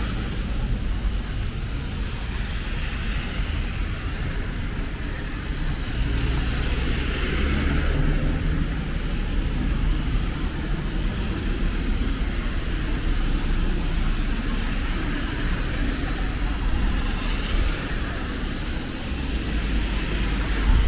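Rainy city street: road traffic passing on wet pavement over a steady hiss, with vehicles swelling past a few times.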